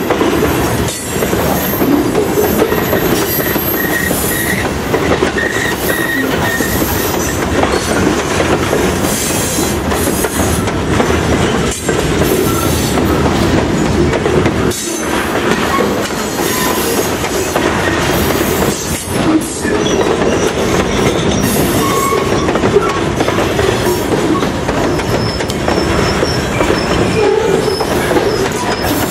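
Freight train of tank cars and covered hoppers rolling past close by: a loud, steady rumble and clatter of wheels over the rails, with brief faint wheel squeals a few seconds in and again near the end.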